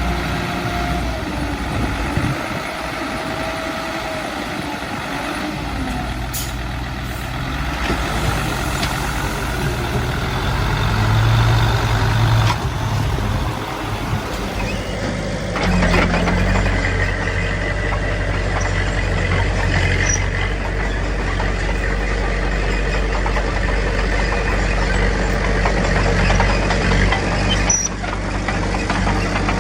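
Diesel engines of earthmoving machinery working, with the engine pitch rising and falling under load. About halfway through the sound changes abruptly to a louder, steadier engine.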